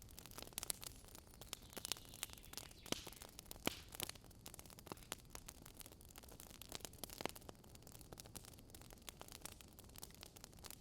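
Campfire burning wood, crackling with irregular sharp snaps and pops over a low hiss. One louder pop comes a little past the third second.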